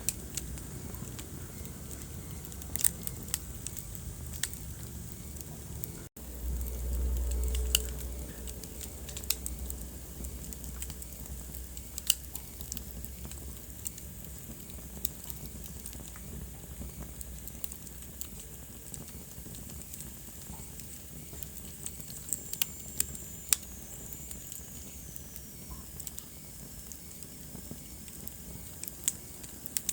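Wood fire crackling in a fireplace: scattered sharp pops and snaps over a steady hiss. About six seconds in, the sound briefly cuts out, and a low rumble follows for a couple of seconds. A faint high whistle falls in pitch later on.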